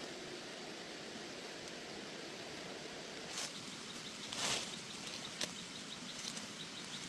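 Outdoor rural ambience with a steady hiss. From about three seconds in come several brief rustles of grass or leaves being handled, and a faint, evenly repeated high chirp.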